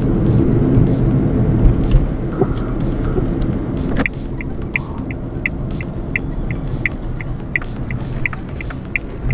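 A car's road and engine noise heard inside the cabin while driving, a steady low rumble. About four seconds in, a regular high-pitched ticking starts, roughly three ticks a second.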